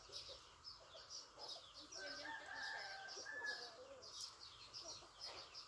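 A rooster crowing once, a held call of about a second and a half starting about two seconds in, over continuous rapid high-pitched bird chirping.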